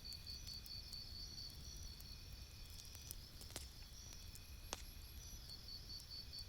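Campfire crackling softly, with a few sharp pops, the clearest a little past the middle, over a low steady rumble. A high, fast-pulsing insect-like chirp runs behind it, fading in the middle.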